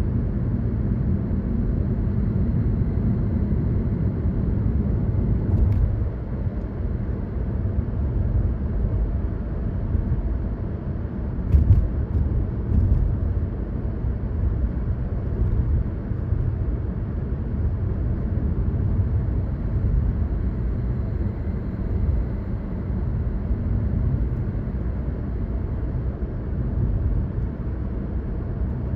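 Car driving along a road: a steady low rumble of tyres and engine, with a few short knocks a little before halfway and around the middle.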